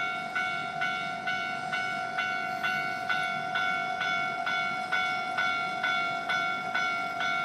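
Railroad level-crossing warning bell ringing steadily, about two strokes a second.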